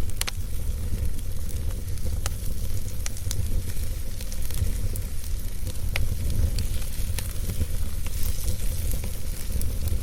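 Wood fire burning: scattered sharp crackles and pops from the burning wood over a steady low rumble and hiss, with one louder pop about six seconds in.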